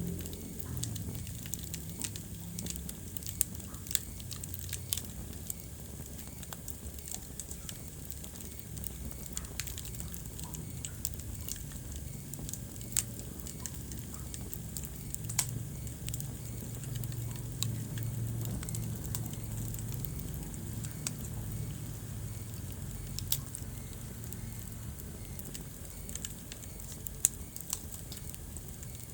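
Wood fire burning in a fireplace, crackling with irregular sharp pops, a few of them louder, over a low steady rumble of the flames.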